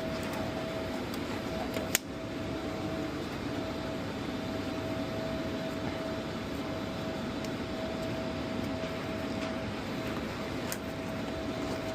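Steady mechanical hum, like a fan or ventilation unit, with a faint steady high tone; a single sharp click about two seconds in.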